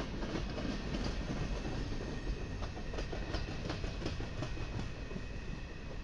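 Freight train of empty centerbeam flatcars and boxcars rolling past close by: steady rumble of steel wheels on the rails, with a run of sharp clickety-clack wheel clicks in the middle.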